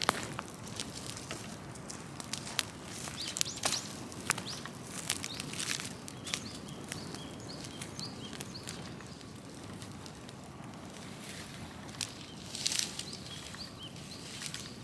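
Large open-air fire of cut trees crackling, with sharp pops scattered irregularly over a steady low rush of flame.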